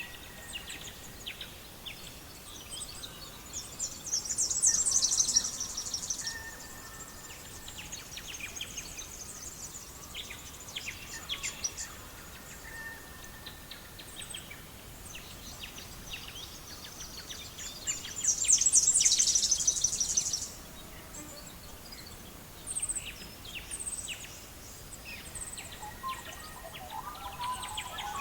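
Birdsong: two long, rapid, high trills, the second the loudest, with short high chirps scattered between them over a faint steady hiss.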